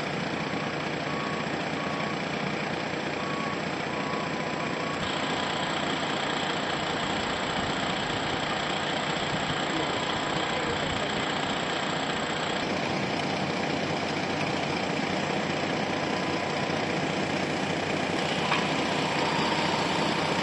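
Steady noise of vehicle engines idling, with a few short, evenly spaced beeps in the first seconds.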